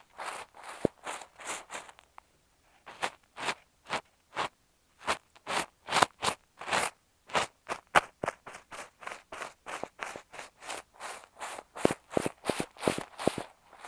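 Kinetic sand crunching and scraping directly against an earphone microphone, a string of short strokes that come quicker in the second half.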